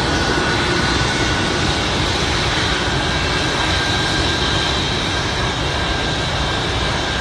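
Airplane in flight: a steady engine drone and rushing noise, with faint steady whines above it.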